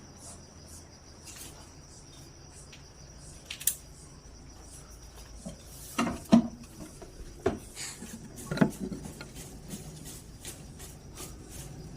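A steady, high, finely pulsing insect-like trill, with a handful of sharp knocks and clatters between about three and a half and nine seconds in, the loudest pair about six seconds in.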